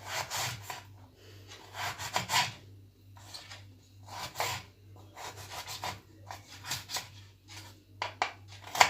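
Knife cutting a carrot finely on a wooden cutting board: a run of short, uneven scraping strokes, about two a second.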